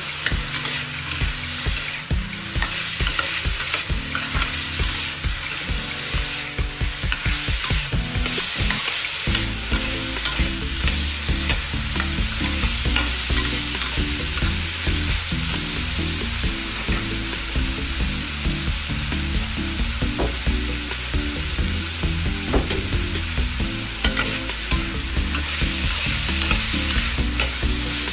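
Diced potato and carrot frying with a steady sizzle in a stainless steel wok, stirred and scraped by a metal spatula that clicks lightly and often against the pan.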